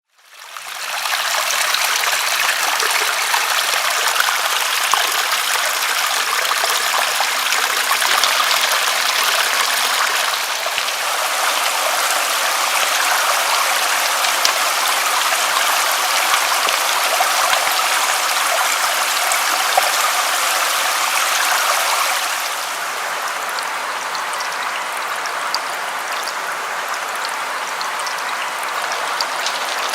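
Steady rain falling, an even hiss of water that fades in over the first second and turns a little quieter about three-quarters of the way through.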